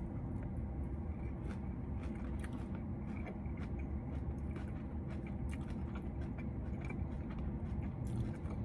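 A person chewing a mouthful of salad bowl, with small crunches and wet mouth clicks scattered throughout, over a steady low hum.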